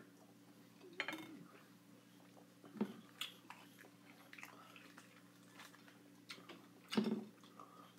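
A person chewing pineapple and pulling juicy pineapple flesh apart by hand, a few short wet mouth and fruit sounds, the loudest about seven seconds in, over a faint steady low hum.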